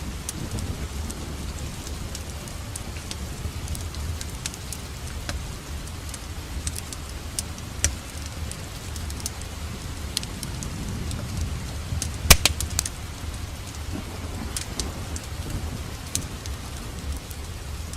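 Wood fire in a fireplace crackling, with scattered sharp pops over a steady rush of rain and a low rumble. A quick run of louder pops comes about twelve seconds in.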